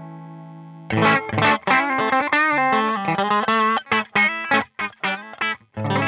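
Overdriven electric guitar through a Peace Hill FX TR tube preamp pedal. A held chord fades, then about a second in a quick single-note lead run with bends starts, breaks into choppy short notes, and a new chord rings out near the end.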